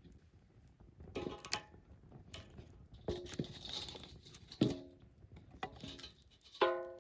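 Metal pieces being handled and knocked together: four sharp clanks with short ringing, with faint rustling between them.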